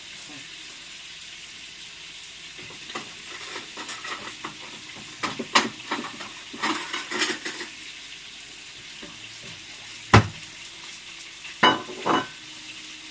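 Food sizzling in a pan with a steady hiss, while a utensil stirs and scrapes against the pot. A sharp knock about ten seconds in is the loudest sound, with two more knocks shortly after.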